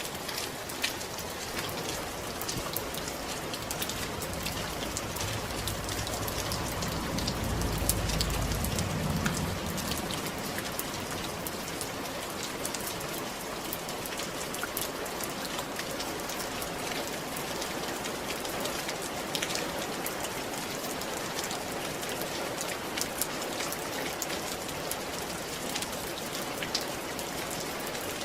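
Steady rain falling on a roof, an even hiss with many separate drops ticking through it. A low rumble swells briefly about a third of the way in and fades again.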